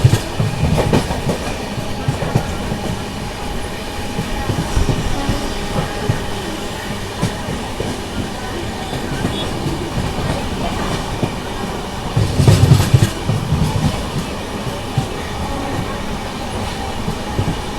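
Train rolling along the track, its wheels clattering in a clickety-clack over the rail joints. There are two louder stretches of heavier clatter: one right at the start and one about twelve seconds in.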